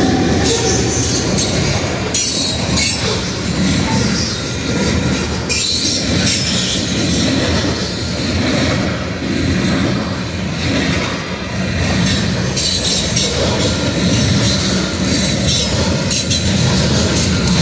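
Coal gondolas of a long Union Pacific coal train rolling past close by: a steady rumble of steel wheels on rail, with wheel squeal rising now and then over it.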